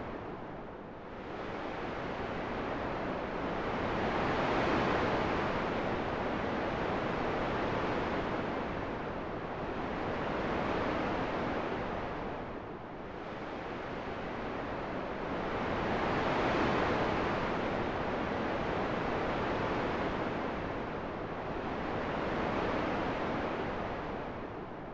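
Wind blowing in a steady rush that swells and fades in slow gusts, rising to a peak roughly every twelve seconds.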